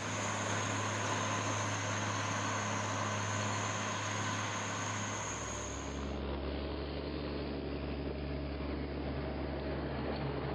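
Steady machine noise with a low engine-like hum, which changes abruptly about six seconds in to a deeper hum.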